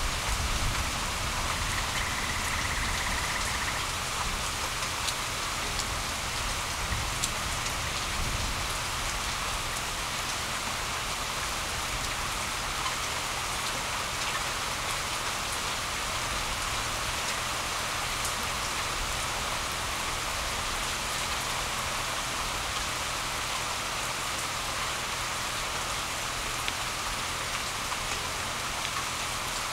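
Steady rain falling on grass and a wet paved road, with occasional sharper raindrop ticks.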